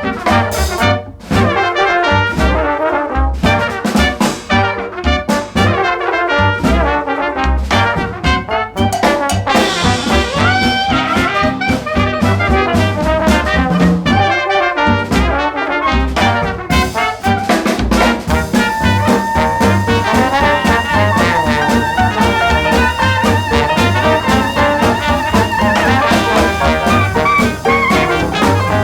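Fast instrumental swing jazz with a brass section of trumpets and trombones over a steady beat; the horns play long held notes for several seconds past the middle.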